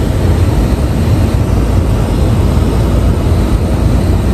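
Soviet I-16 fighter's radial engine running in flight, a steady loud drone.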